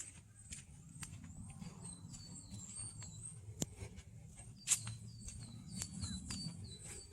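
Wild birds singing a quick series of short, high, falling chirps, several a second, with footsteps crunching on a forest track.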